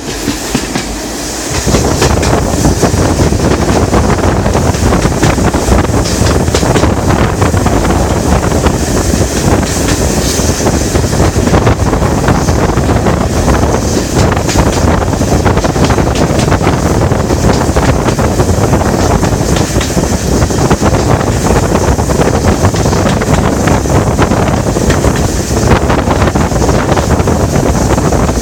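A train running on the line, heavily masked by wind buffeting the microphone. The noise jumps up sharply about a second and a half in and then stays loud and steady.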